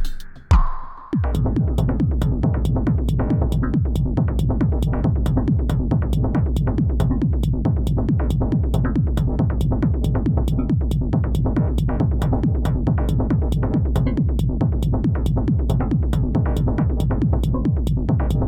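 Elektron Model:Cycles FM groovebox playing a factory pattern: a driving electronic loop that comes in fully about a second in, with a pulsing low bass and a rapid, even run of sharp percussive ticks over it.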